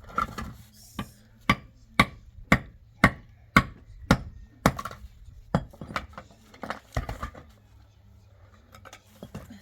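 A run of chopping strokes, a blade striking down about twice a second, sharp and even, stopping about seven seconds in.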